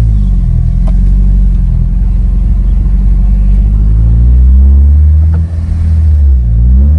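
Honda S2000's four-cylinder engine under way with no catalytic converter, revs falling, then climbing steadily; about five and a half seconds in the sound drops off briefly, as at a clutch-in gear change, and the revs swing down and back up near the end.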